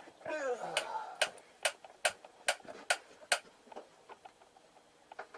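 Six sharp taps, about two a second, knocking a part back into the rear shock mounting, followed by lighter clicks. A short falling sound comes just before the taps.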